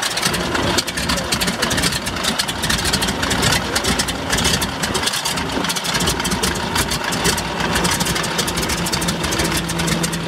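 Pratt & Whitney R-985 Wasp radial engine of a Boeing PT-17 Stearman biplane running steadily at low power.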